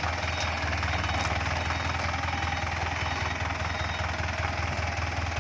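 Truck engine running steadily with a low hum.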